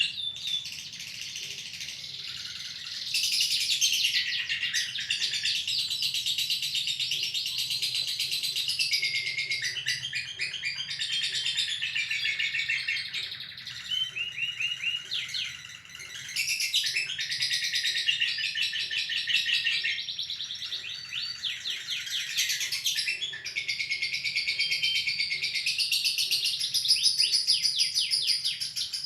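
Lovebird singing a long ngekek: a continuous, fast, high-pitched chattering trill that thins briefly about halfway through and then resumes at full strength.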